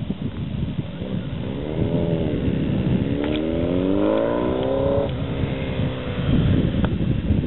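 2004 Kawasaki ZX-10R's inline-four engine revving through a Racefit Growler exhaust. A short rev rises and falls about two seconds in. A second, longer rev climbs and drops off sharply about five seconds in, then holds briefly before fading.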